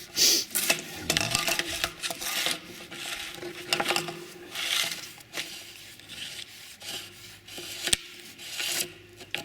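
Irregular rubbing and scraping as the septic alarm's float switch and its cable are handled and fed back down into the tank, with a sharp click about eight seconds in.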